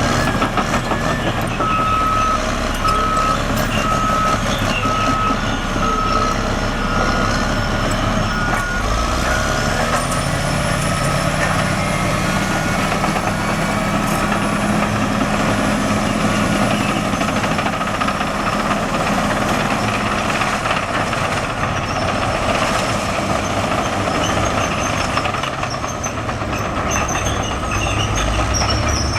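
Caterpillar D6R XW bulldozer's diesel engine working steadily while grading, with a reversing alarm beeping about once a second through the first half. The engine note climbs about a third of the way in and holds.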